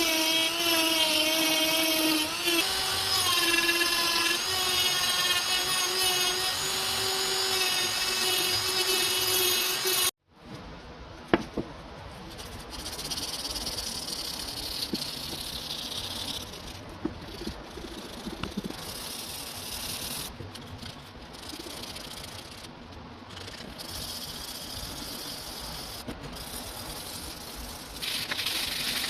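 An electric power tool running with a steady whine for about ten seconds, then cutting out abruptly. After that comes quieter, intermittent rubbing with a few light clicks.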